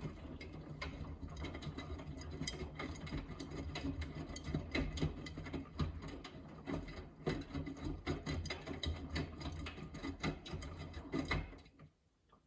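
Miele W3985 front-loading washing machine tumbling its drum in the main wash: a steady motor hum with the knocks and swish of wet laundry falling. It stops about a second before the end as the drum pauses.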